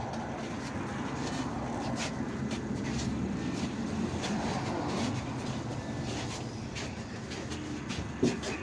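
Inside an IVECO Urbanway 18M articulated city bus on the move: steady engine and road noise, with frequent light rattles and clicks from the cabin and one short louder knock near the end.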